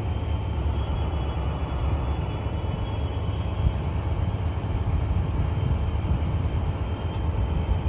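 A train passing close by, giving a steady low rumble with a faint high ringing tone above it.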